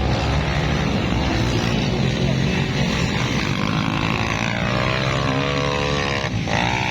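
Underbone motorcycle engines running hard at high revs, several pitches overlapping. One engine's pitch climbs steadily from about three seconds in, then drops sharply a little after six seconds.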